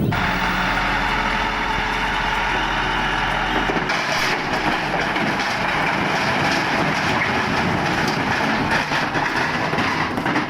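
Toy truck rolling along a floor, a steady rolling rumble that changes slightly about four seconds in.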